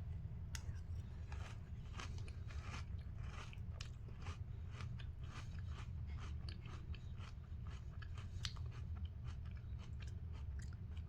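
A person chewing a mouthful of Cinnamon Pebbles crisp rice cereal with milk, a run of soft irregular crunches close to the microphone over a low steady hum.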